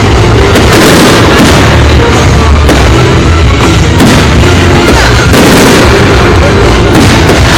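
Fireworks going off in a dense run of repeated bangs and crackles, over loud music.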